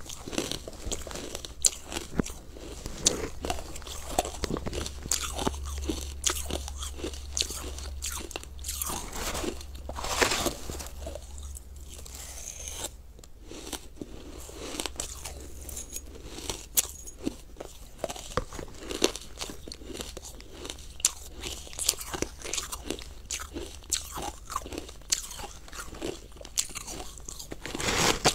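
Close-up crunching and chewing of crumbly frozen food, with irregular crisp crunches throughout.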